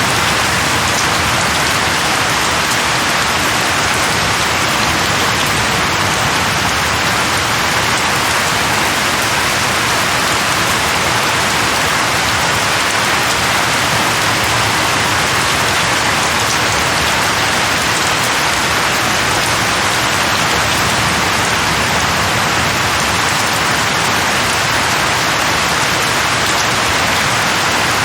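Steady, heavy rain falling and pattering on a surface, an even wash of sound with no thunder or other events.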